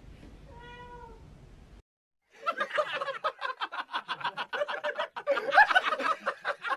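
A cat's short meow. After a brief break comes a long, louder run of rapid pitched vocal pulses, several a second.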